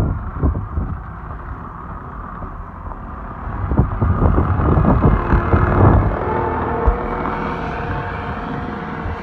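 A motor vehicle running, with wind rumbling on the microphone and a few knocks in the middle; from about six seconds in a steady whine holds.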